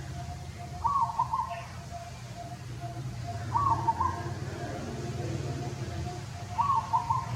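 A bird calling: a short two-part call repeated three times, about three seconds apart, over a steady low rumble.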